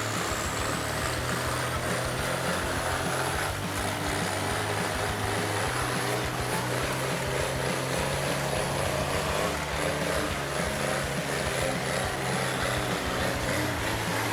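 Heavy log truck's diesel engine running steadily under load, with a thin high whine that slowly rises in pitch.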